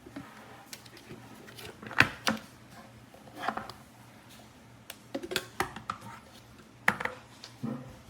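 Hard kitchen items being handled, making a series of separate clicks, knocks and clinks. The loudest knock comes about two seconds in, with a quick cluster of clinks a little past the middle.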